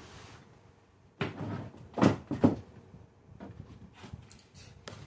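A few knocks and bumps from household handling: one about a second in, then two sharper ones around two seconds in, with faint clicks after.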